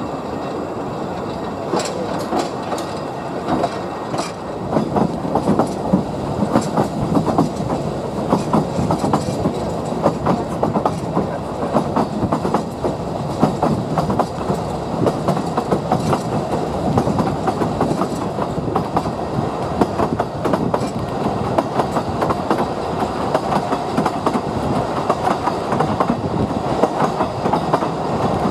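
Narrow-gauge train running along the track: a steady rumble and rattle, with the wheels clicking over the rail joints all the way through.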